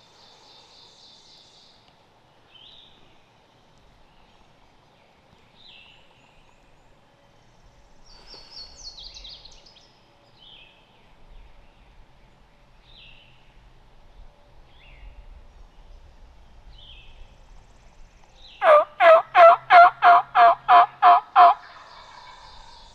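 A run of about nine loud turkey yelps, evenly spaced at roughly three a second, starting near the end. Faint songbird chirps sound now and then throughout.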